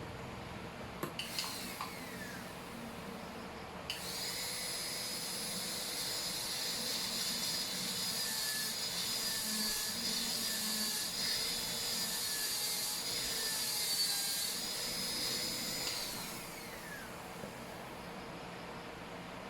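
High-speed dental handpiece (drill) whining while cutting a mesial Class II cavity preparation in a lower first molar: a short burst about a second in that winds down, then a steady high-pitched whine for about twelve seconds, dipping briefly under load, before it winds down and stops.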